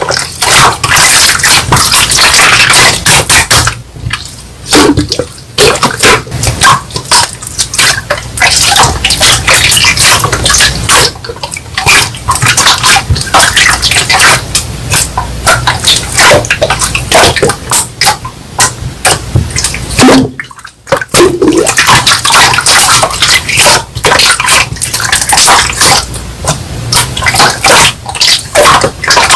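Slime being squeezed, poked and folded by hand, giving dense wet crackling, clicking and popping.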